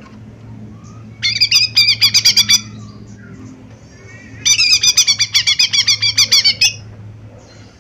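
Cucak ijo mini (a leafbird) calling: two bursts of quick repeated notes, about seven a second, the first about a second in and the longer one from the middle, over a low steady hum.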